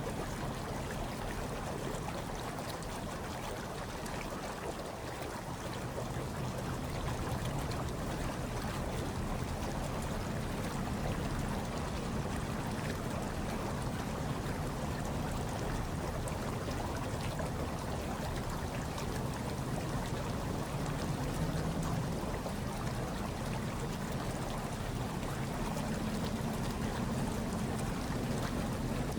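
Hot tub water churning and bubbling steadily, with a low rumble underneath.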